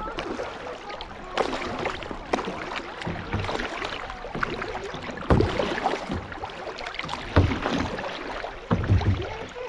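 Kayak paddles dipping and splashing in a shallow river, with irregular splashes and knocks and a few heavier low thumps.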